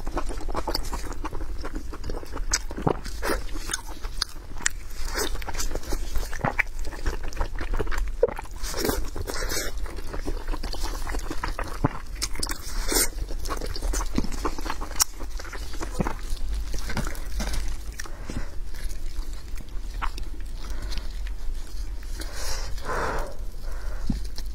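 Close-miked eating of braised pork: chewing and wet lip-smacking with many irregular clicks, along with the squelch of plastic-gloved hands pulling the meat apart.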